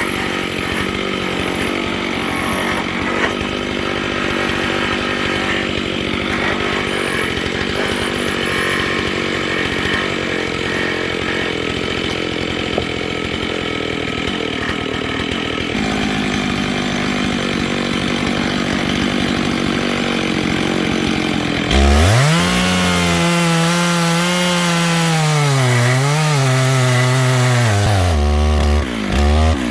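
Two-stroke chainsaw cutting through an oak log under load for most of the stretch. Near the end the engine runs free at high revs with a clear, wavering pitch, dropping briefly just before it stops.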